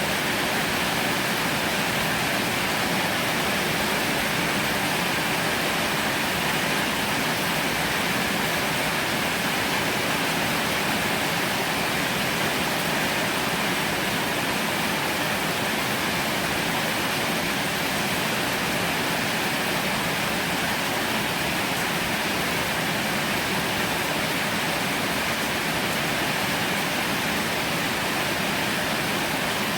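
Heavy rain falling steadily, an even hiss with no let-up or thunder.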